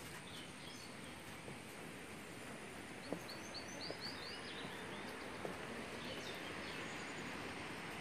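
Small birds chirping over a steady outdoor hiss. A quick run of repeated short, falling notes comes about three seconds in, with a few more chirps near the start and around six seconds.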